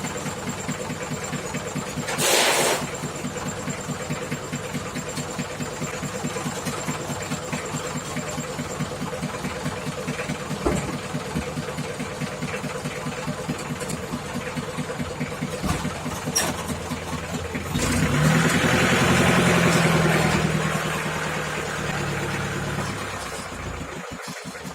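Engine idling with an even rhythm. About two seconds in there is a short burst of hiss. Around eighteen seconds the engine note rises and gets louder for a few seconds, then settles back.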